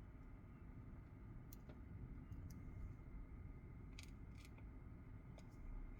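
Near silence with low room hum and a few faint, light clicks and taps as the phone and its replacement screen are handled and set in place.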